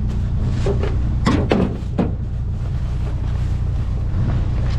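Truck engine idling steadily with a low hum. A few short rustles and knocks come between about one and two seconds in.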